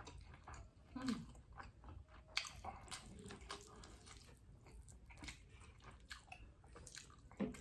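Close-up mouth sounds of people chewing rice and eggplant sambal, with wet smacks and scattered soft clicks as they eat by hand.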